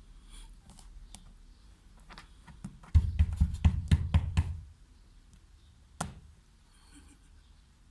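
A quick run of about a dozen heavy knocks and thuds over under two seconds, starting about three seconds in, then a single sharp knock a little later, with faint clicks before it.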